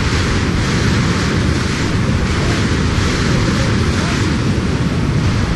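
Strong tornado winds blasting over the microphone: a loud, steady rush of wind noise with heavy low buffeting.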